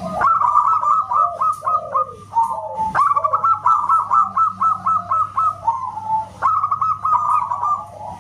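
Local zebra dove (perkutut) singing loudly: rapid runs of short, whistle-like cooing notes, in phrases that start again about three seconds in and about six and a half seconds in.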